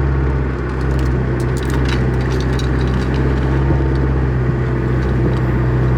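A 1995 Toyota Hilux running steadily while driving down a 4WD track, with scattered clicks and rattles over the rough ground.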